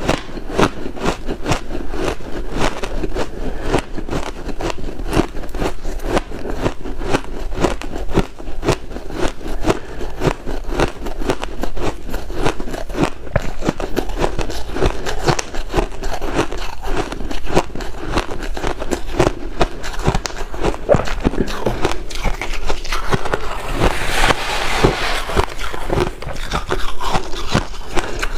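Close-up crunching of white ice: a dense, rapid crackling with no break, growing brighter and harsher for a couple of seconds near the end.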